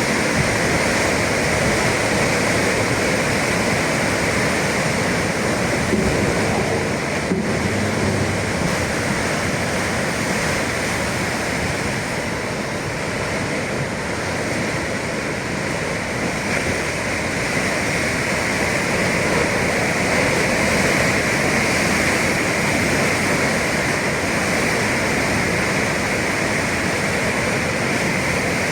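Atlantic Ocean surf washing and breaking against the shore: a steady rush of water that swells and eases gently.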